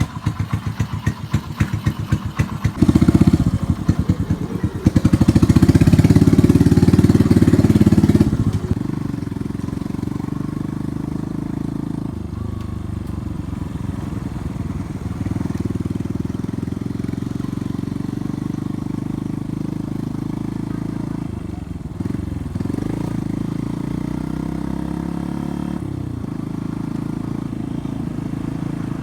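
Yamaha Byson's single-cylinder engine through a free-flow exhaust: a pulsing idle, revved hard twice a few seconds in, then running steadily with a few brief dips and glides in pitch.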